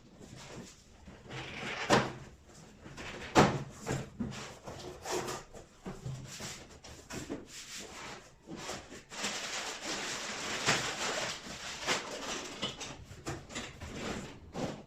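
Handling noises, as of packaging being unboxed: irregular rubbing and rustling with a few sharp knocks, the loudest about two seconds and three and a half seconds in.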